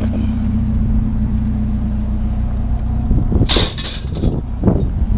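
A vehicle engine idling steadily, with a short, loud clatter about three and a half seconds in and a smaller knock about a second later.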